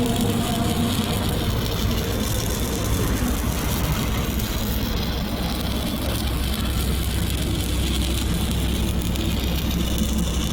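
Steady crackle of a 6010 stick-welding arc running a downhill root pass on pipe, over a constant low engine drone.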